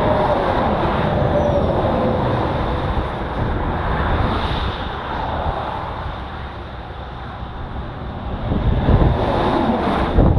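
Motorcycle running on the road with wind rushing over the microphone. The engine note falls over the first couple of seconds, and the low wind buffeting grows heavier near the end.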